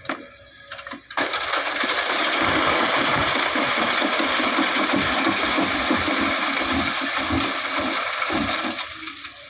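Load of sand pouring from an excavator bucket into a dump truck's steel bed: a sudden rushing hiss with many low thuds that starts about a second in, holds steady for several seconds, then fades out near the end.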